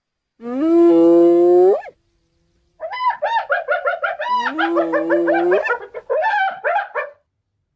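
An animal's calls: one held call that rises in pitch at its end, then after a short pause a run of wavering, up-and-down yelping calls.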